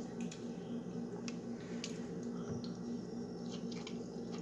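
Close-miked eating sounds of crab: soft wet smacks and clicks of chewing, scattered a few times, over a steady low hum.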